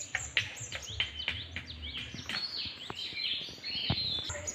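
Birds chirping in many quick, short, high calls, mixed with scattered sharp knocks and clicks.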